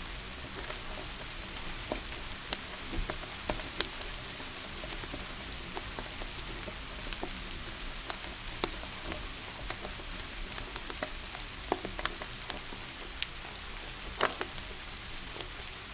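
Steady rain hiss with irregular sharp crackles and pops, as of a wood fire crackling, a few per second. The loudest pop comes near the end.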